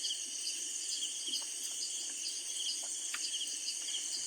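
Night insects, crickets among them, chirping in a steady chorus, with one pulsed call repeating every second or so. A few faint clicks sound through it.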